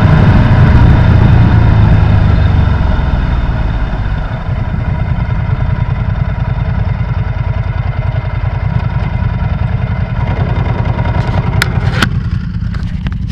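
Sportbike engine dropping from riding speed over the first few seconds, then idling with a steady low pulsing beat. A few sharp clicks come near the end.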